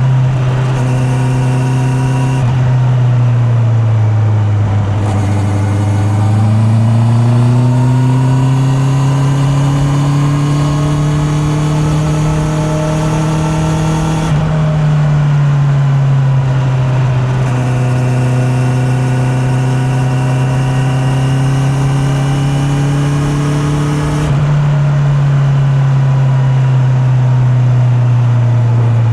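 Honda CB650R inline-four motorcycle engine under way, heard from a mic in the rider's back pocket. The revs fall and then climb steadily for several seconds. The engine note then drops in a step twice and holds fairly steady between the drops.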